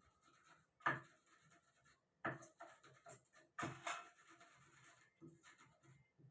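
Wooden rolling pin crushing roasted cumin seeds on a board, with rubbing, pressing strokes and three sharper knocks about one, two and a half, and three and a half seconds in.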